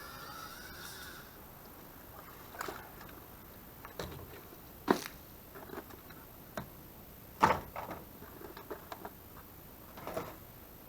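Scattered knocks and clunks of work on a boat's water-damaged deck as pieces are pried and handled. A brief squeak at the start; the loudest knocks come about five and seven and a half seconds in.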